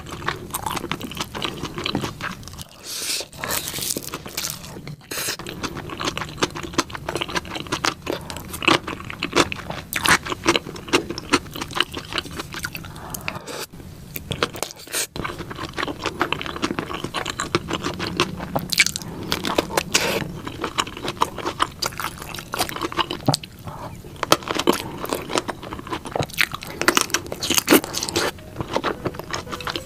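Close-miked eating sounds: biting and chewing with crunching and many sharp, wet clicks, from mouthfuls of kimchi fried rice and kielbasa sausage.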